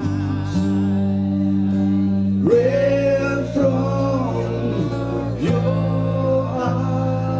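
A live band playing the song's closing bars: steady guitar and bass chords under a voice holding long wordless notes that slide up into each one, about two and a half and five and a half seconds in.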